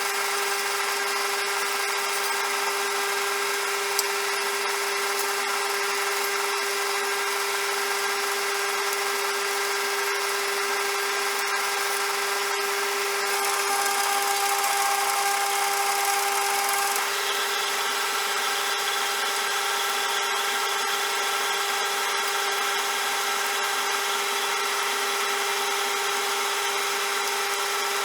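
CJM360 metal lathe running steadily with a constant motor whine. For a few seconds around the middle it gets slightly louder with an added higher tone, then settles back.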